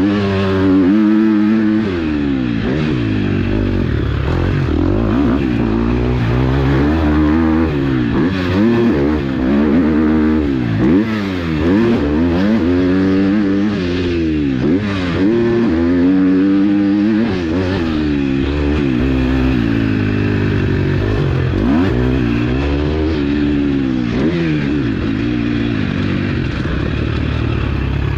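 KTM SX-F 250 motocross bike's single-cylinder four-stroke engine being ridden hard around a motocross track. The revs climb and drop over and over as the rider opens and closes the throttle and shifts through the gears.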